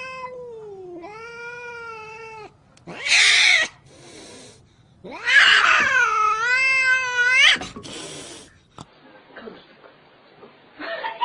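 Cat caterwauling: two long, wavering, drawn-out yowls, the second one louder, each followed by a short harsh hiss. After that it goes quiet.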